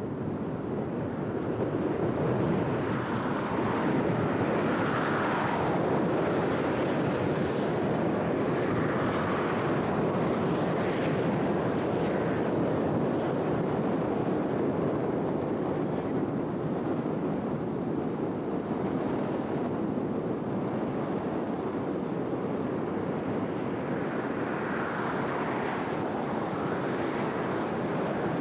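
Steady rushing outdoor noise of wind on the camcorder microphone, swelling and easing gently.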